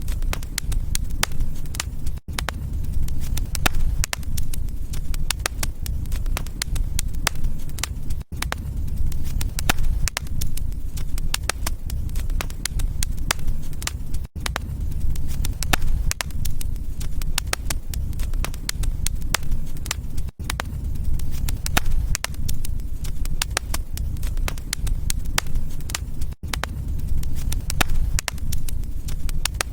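Fireplace fire crackling, dense sharp pops over a low steady rumble of flame, with a brief dropout about every six seconds.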